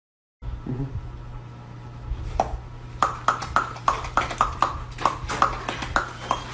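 A series of light ringing taps, about three a second, over a steady low hum.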